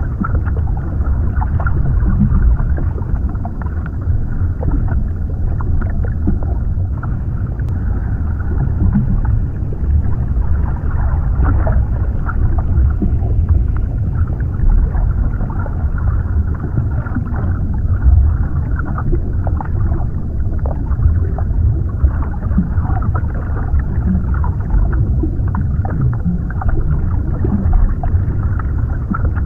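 Underwater ambience: a deep, steady, muffled rumble with faint crackles scattered through it.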